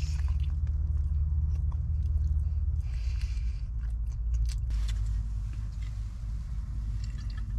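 Strong wind buffeting the tent and microphone as a steady low rumble, with scattered small clicks and crunches on top.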